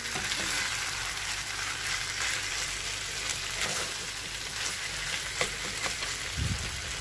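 Rice, green peas and diced chicken sizzling steadily in oil in a frying pan during the frying stage of a filling. A slotted spatula stirs it, with a few brief scrapes against the pan.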